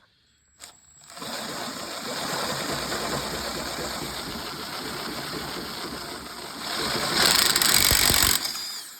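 Power impact wrench running in one long burst of about seven seconds, louder toward the end, then stopping abruptly, as it spins off bolts while pulleys and brackets are stripped from the engine.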